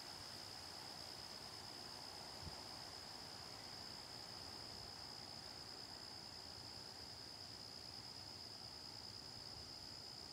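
Insect chorus, crickets or similar, making a faint steady high-pitched drone that never breaks, with one soft click about two and a half seconds in.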